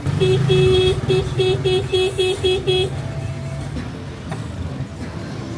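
A vehicle horn tooting about nine times in quick succession over the low running of an engine: two longer toots, then short ones about four a second, stopping about halfway through.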